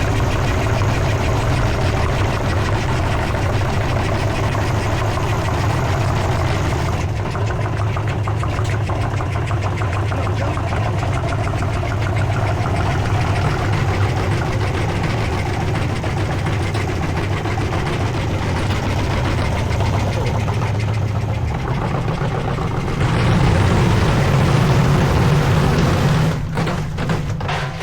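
Old Hotpoint washing machine running hard, its motor and drum making a loud steady drone. Near the end it grows louder, then knocks sharply and cuts out as the machine shakes itself loose and pulls out its own plug.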